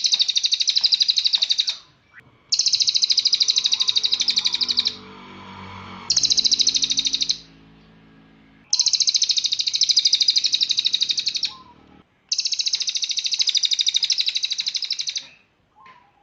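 Cililin songbird singing in long bursts of very fast, high repeated notes ('tembakan'), five bouts of about two to three seconds each with brief pauses between them.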